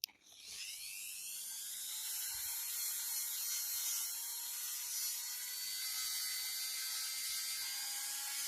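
Small high-speed electric motor switched on, its whine rising in pitch over about a second and a half as it spins up, then running steadily at a high pitch.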